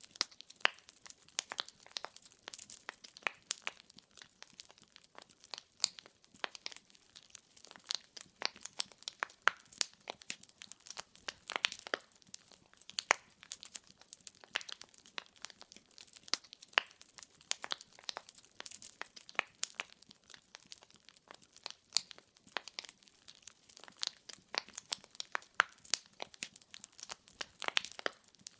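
Firewood burning in a fireplace, crackling steadily with many sharp, irregular pops and snaps.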